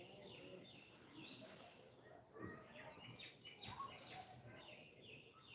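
Faint, high-pitched animal chirps and squeaks, many short ones in quick succession.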